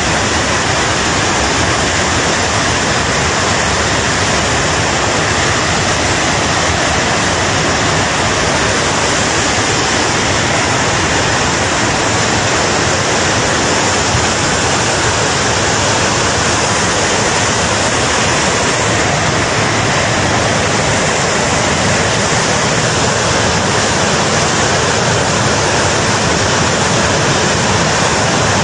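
Floodwater rushing in a river torrent, a loud steady rush of water that does not let up.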